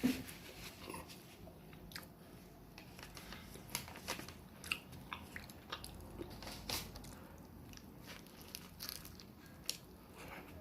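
Close-miked chewing and biting: a person eating a sandwich, with irregular wet clicks and small crunches.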